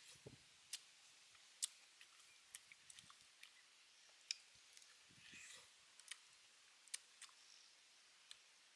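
Quiet eating sounds: mouth clicks and lip smacks of someone chewing fried pig's feet, sharp and irregular, about one every half second, with the loudest click a little over a second in.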